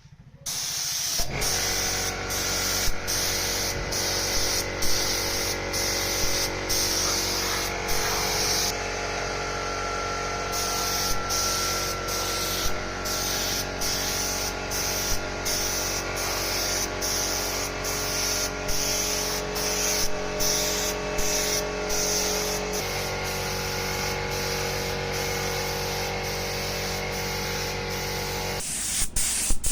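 Paint spray gun hissing in short, regular strokes, the spray cutting off briefly about twice a second, over a steady low hum.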